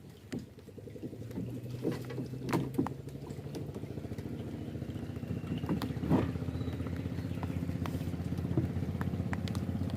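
Small boat engine running steadily with a fast pulsing note, growing louder from about a second in, with scattered sharp ticks over it.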